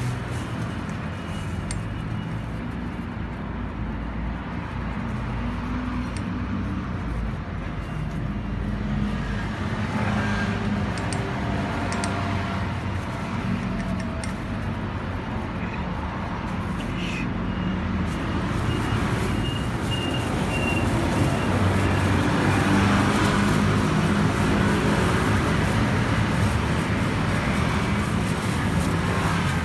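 A motor vehicle engine running, its pitch shifting up and down, growing louder about two thirds of the way through.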